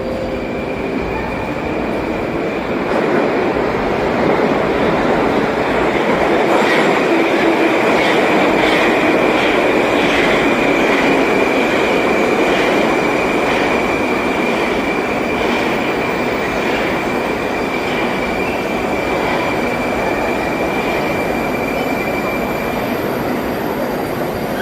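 Moscow metro train running along the platform track: a steady rail rumble with a high wheel squeal held through most of it, and wheel clicks over rail joints about once a second in the middle, slowly spreading out.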